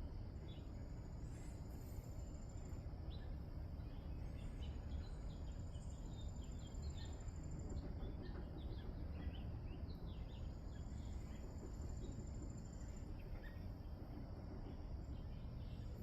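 Outdoor wildlife ambience over a steady low background rumble: a thin, high trill comes in runs of about three seconds, four times, among scattered short bird chirps.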